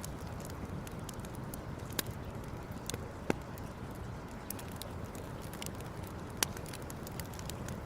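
Campfire burning, crackling with many small ticks and three louder sharp pops, over a steady low rush.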